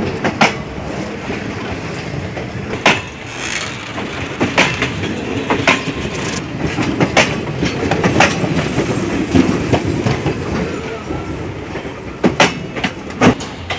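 Indian Railways passenger coaches rolling past at close range. The wheels clack over the rail joints in sharp, unevenly spaced knocks above a steady rolling rumble.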